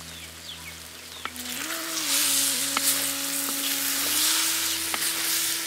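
Ivy gourd slices frying in oil and masala in a pan, sizzling more loudly from about a second and a half in as they are stirred, with a few sharp clicks. The slices have cooked soft under the lid.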